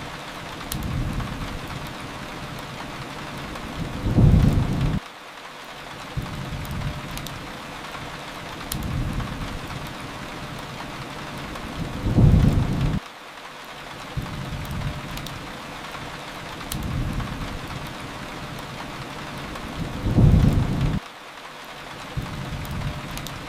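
Steady rain with a low rumble of thunder three times, about eight seconds apart, each under a second long and ending abruptly. Sharp crackles from a wood fire are scattered through.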